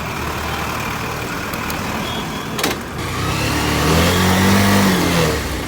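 Road traffic with a motor vehicle's engine passing close by, swelling to its loudest about four seconds in and then fading. A sharp click comes just before it.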